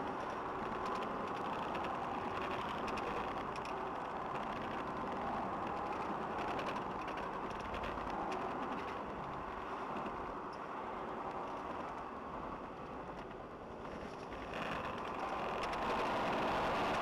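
Steady driving noise of a car through a dash camera's microphone, with faint rattling clicks throughout; it dips a little, then grows louder near the end.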